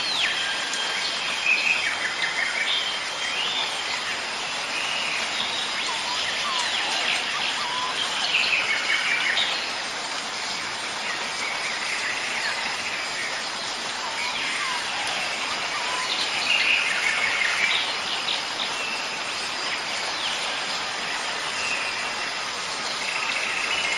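Several birds chirping and trilling in short, repeated calls over a steady rushing background noise. A thin, steady high tone comes in near the end.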